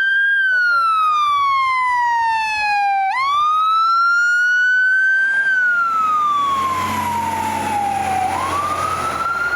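Fire truck siren on wail, rising and falling in a slow cycle of about five seconds. Truck engine and road noise grow louder in the second half as the vehicle passes.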